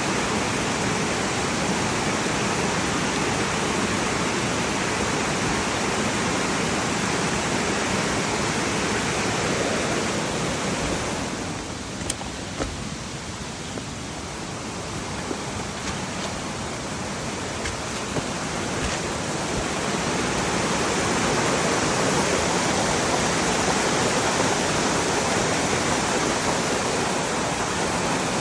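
Heavy rushing river water running high in the rain: a steady wash of water noise that softens and dulls for several seconds around the middle, with a couple of faint clicks.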